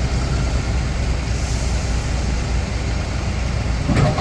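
Diesel engine of a Nippon Sharyo DH408-95M crawler pile driver running steadily with a low rumble. A brief louder sound comes near the end.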